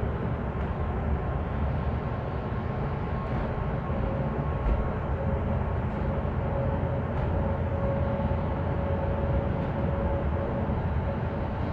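VTA light rail train running between stations, heard from on board: a steady low rumble of wheels on rail with a steady mid-pitched whine over it.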